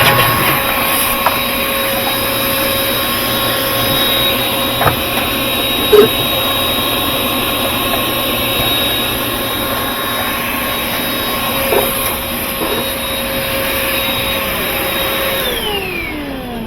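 Vacuum cleaner motor running steadily with a high whine, sucking dirt out of a washing machine, with a few light knocks. Near the end it is switched off and its pitch falls as the motor spins down.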